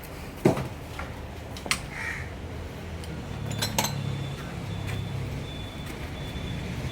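A few sharp metallic clinks and knocks of steel parts or tools being handled, the loudest about half a second in. A low engine hum comes in at about three seconds.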